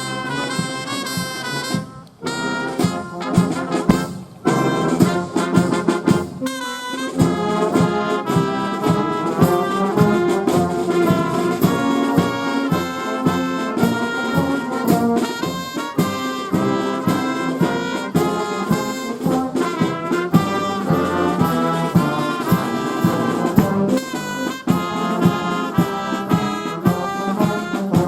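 Fire brigade brass band playing, with trumpets and trombones carrying sustained chords. The music breaks off briefly about two and four seconds in, then plays on without a pause.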